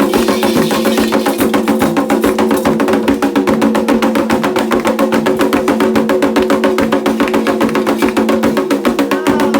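Candomblé ritual drumming: atabaque hand drums played in a fast, even rhythm with a sharp clacking beat on top, over a steady pitched layer.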